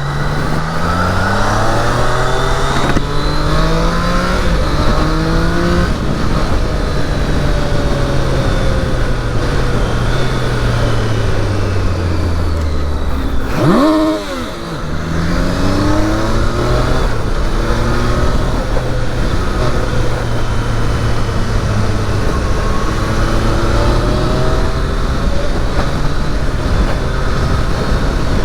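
Triumph Daytona 660's three-cylinder engine heard from the bike while riding. It accelerates up through several gears with rising pitch, winds down until about halfway, gives a quick sharp dip and rise in pitch, then cruises at a fairly steady pitch with small rises and falls, over steady wind and road noise.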